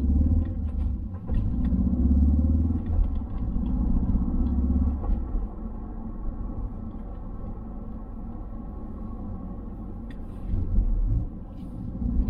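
Ford Focus ST Mk4's 2.3-litre EcoBoost four-cylinder and road rumble while driving, the engine note swelling under acceleration in the first few seconds, then settling to a quieter, steady cruise, with another short surge near the end.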